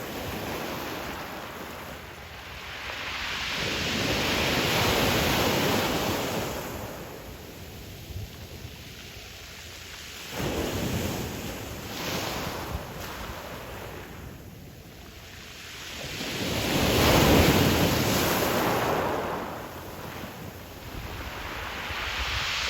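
Ocean surf breaking and washing up a pebble beach in slow surges, with two large waves, the second the louder of the two, and smaller wash between them.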